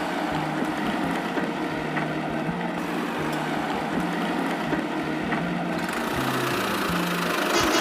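Small motor of a DIY model tractor running steadily with a dense whirring noise. Behind it a simple tune of low notes changes about every half second.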